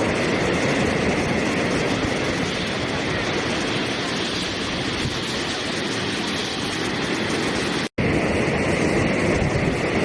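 Steady rushing water, an even hiss spread from low to high, broken by a sudden silent gap lasting a split second about eight seconds in.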